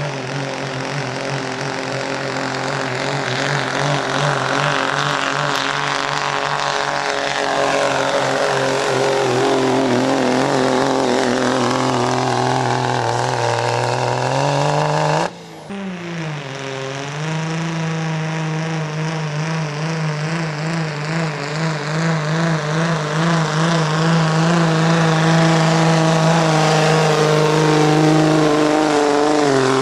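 A pulling truck's engine running hard at high, steady revs under load, getting gradually louder. It breaks off suddenly about halfway through, then an engine is again held at high revs.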